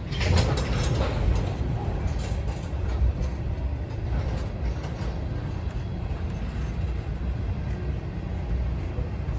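Freight train of tank cars and boxcars rolling past: a steady low rumble of wheels on rail, with a few sharp clanks in the first second or so.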